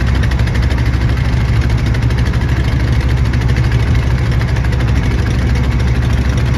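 A boat's engine running steadily: a loud, low drone with an even rapid pulse.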